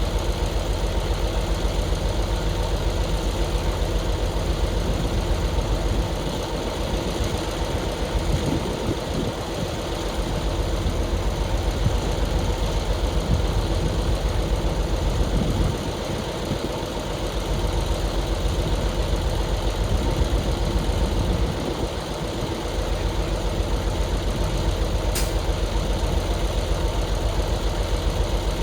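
A heavy machine's engine running steadily with a low pulsing beat, easing off in level briefly a few times.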